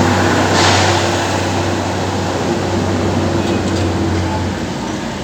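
A machine running with a steady low hum over a noisy background, with a short hiss about half a second in; the hum cuts off about four and a half seconds in.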